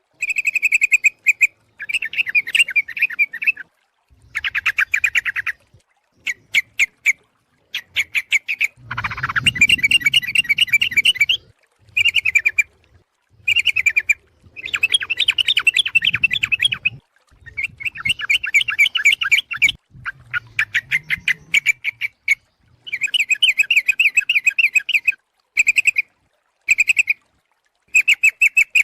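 Yellow-vented bulbul (trucuk) calls played as a lure recording: bursts of quick, bubbling chattering notes, each lasting from half a second to a few seconds, with short pauses between them. A longer, harsher burst comes about a third of the way in. The uploader presents it as a female calling a male.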